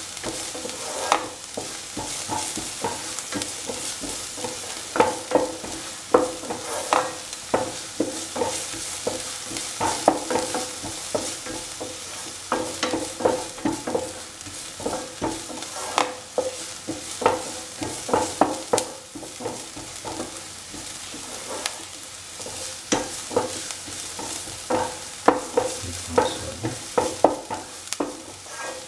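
Sliced shallots sizzling as they fry in oil in a pan, with a steady hiss. Frequent short scrapes and knocks of a utensil against the pan break through, one to a few a second, as the shallots are stirred.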